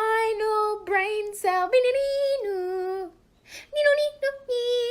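A high voice singing a short wordless tune in held notes that step up and down in pitch, in two phrases with a brief pause in the middle.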